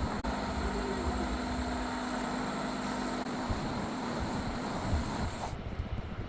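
A handheld electric woodworking tool running steadily, with a low hum under a hiss; the high hiss drops away about five and a half seconds in.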